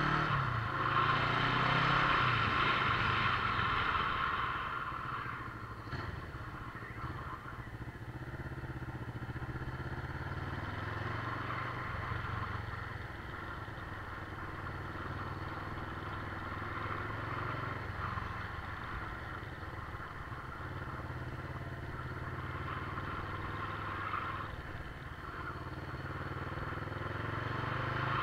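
Motorcycle engine running under way, its note shifting in pitch, with road noise. It is louder for the first few seconds, quieter through the middle and louder again near the end.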